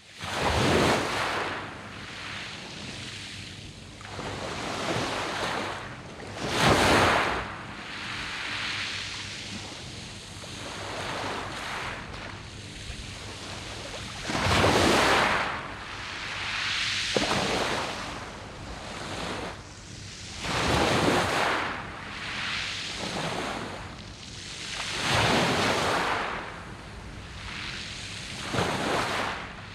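Sea waves breaking and washing up a beach of smooth round pebbles, surging in one after another every few seconds, the biggest about a second in, again near seven seconds and near fifteen seconds.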